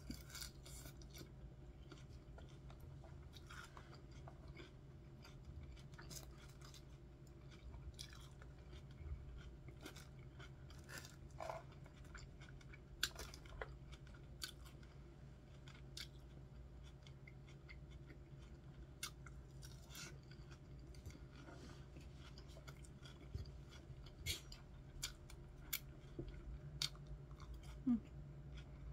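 Chewing and crunching of an iceberg lettuce salad with bacon bits and ranch, in irregular crisp crunches and clicks, over a faint low hum.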